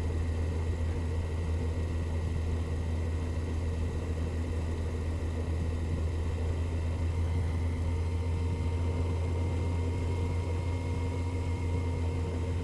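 Motorcycle engine running at steady revs, a constant low hum with no change in pitch.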